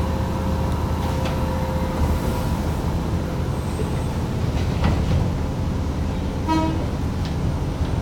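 Fujikyu 1000 series electric train running, heard from on board: a steady rumble of wheels on rail with a few faint clicks, and a short toot about six and a half seconds in.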